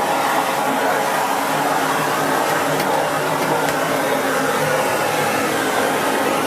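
Miele S8730 (C3 Complete) cylinder vacuum cleaner running steadily while vacuuming the floor with its floor head.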